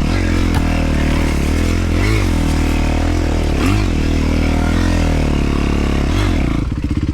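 Dirt bike engine running under the rider, revving up and falling back in short throttle blips about three times, then dropping to a low, slow chug near the end.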